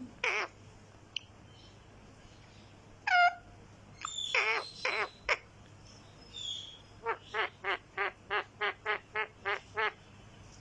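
Green talking parrot making short pitched calls in the first half, then a quick run of about ten short repeated notes, about four a second, in the second half.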